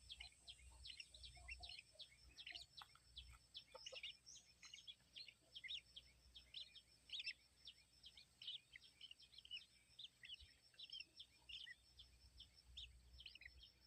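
Faint, dense chatter of many short, high bird chirps, several a second, over a thin steady high-pitched whine.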